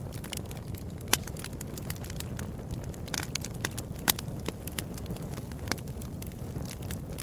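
Fire crackling in a fireplace: a steady low rumble of flames with frequent sharp pops and snaps, the loudest about a second in and again around four seconds in.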